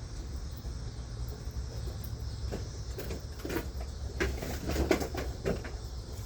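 A few short knocks and clicks of handling noise in the middle of the clip, over a steady low hum.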